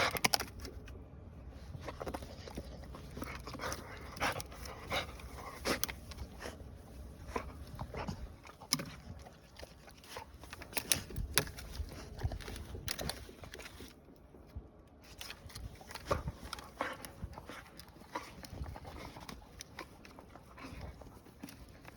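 Pit bull panting as it tears at a tree, with many scattered sharp snaps and cracks of wood.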